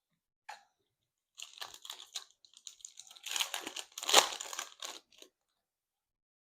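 Foil wrapper of a Topps Chrome trading card pack crinkling and tearing as it is handled and ripped open, in a run of crackles that is loudest about four seconds in.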